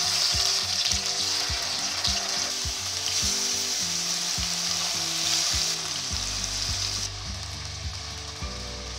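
Marinated chicken wings sizzling as they fry in hot oil in a pan, a steady hiss that thins a little about seven seconds in. Soft background music plays underneath.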